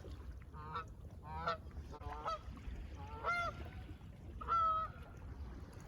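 Geese honking: about five separate calls, the one about three seconds in rising and the one near the end held a little longer, over a low steady background rumble.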